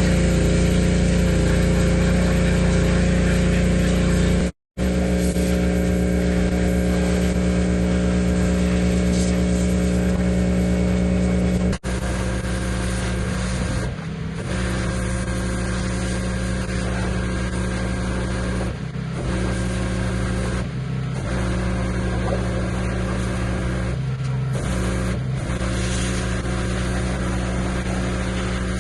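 Pressure washer running steadily with a constant motor and pump note under the hiss of the spray, dipping briefly a few times. It cuts out abruptly for an instant about five seconds in.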